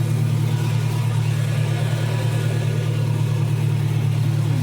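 A miniature zoo train's engine running steadily with an even, unbroken low hum.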